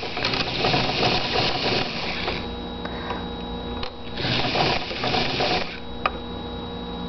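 Electric sewing machine stitching in two runs of about two seconds each, with a quieter lull between them, then a sharp click about six seconds in.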